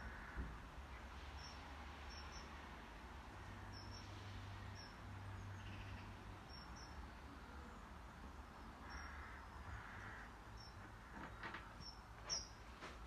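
Faint ambience of short high chirps, repeating about once or twice a second, over a low steady hum, with a few soft knocks near the start and near the end.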